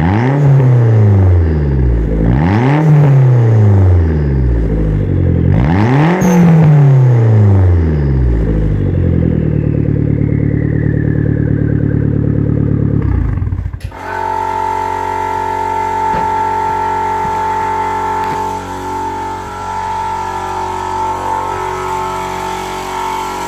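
Engine exhaust through a homemade muffler can, revved up and let back down three times, then held at a steady speed. About 14 s in the sound cuts abruptly to a steady running engine with a high steady whine over it.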